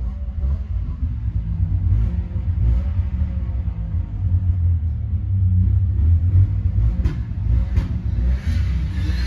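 Yamaha V Max three-cylinder two-stroke snowmobile engine running with an uneven rumble, not running smoothly, typical of one cylinder fouling its plug. Two short clicks come late on.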